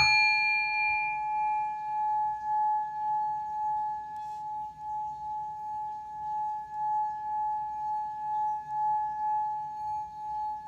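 Heart chakra singing bowl struck once, then ringing on with one steady tone whose volume wavers in a regular pulse; its brighter upper tones die away within about the first second.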